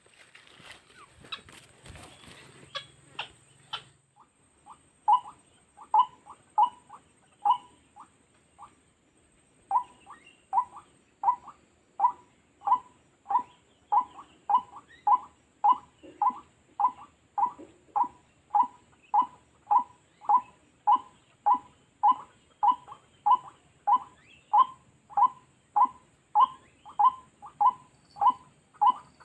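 White-breasted waterhen calling a short, harsh note over and over, about twice a second, in a steady monotonous run that starts a few seconds in after some faint rustling and clicks.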